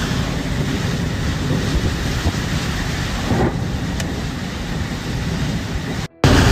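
Loud, steady storm noise: wind and heavy rain rushing, with wind buffeting the microphone. It drops out for a moment near the end.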